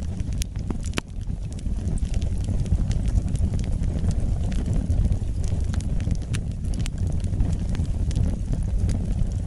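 Wood fire burning: a steady low rumble of flames with frequent sharp crackles and pops scattered irregularly throughout.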